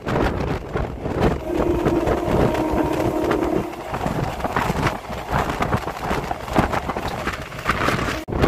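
MEMU electric train running along the track, heard from its open doorway: rumbling wheel-and-rail noise with many short knocks, and wind buffeting the microphone. A steady humming tone sounds for about two seconds near the start.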